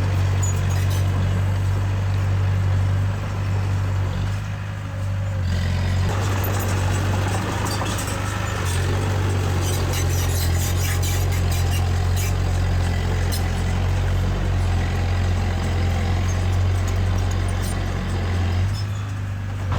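Diesel engine of heavy earthmoving machinery running steadily at a low, even pitch, with frequent metallic clanks and rattles over it. The engine note eases briefly about four seconds in and again near the end.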